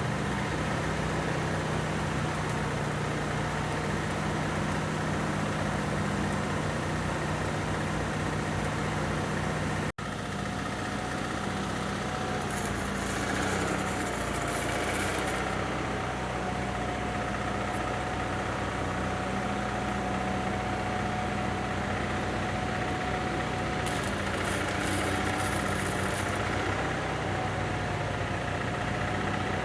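Electric arc welder striking arcs: two crackling, hissing spells of about three seconds each, one about a third of the way in and one near the end, over a steady low machine hum.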